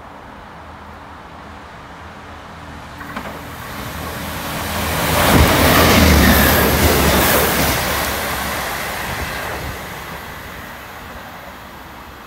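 Electric multiple-unit passenger train running through the station at speed: wheel-on-rail rumble builds from about three seconds in, is loudest around the middle as the carriages pass, then fades away.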